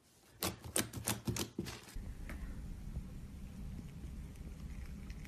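Sticky slime being handled, giving a quick run of about six sharp clicking pops in the first two seconds. After that a steady low hum carries on with only faint ticks.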